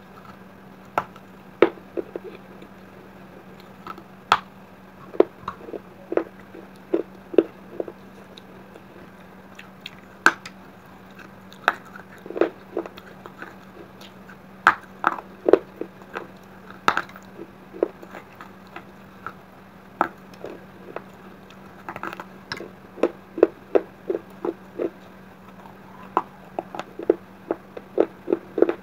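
Mouth biting and chewing baked clay pieces coated in wet clay paste: irregular sharp crunches, sometimes several a second in flurries, over a faint steady hum.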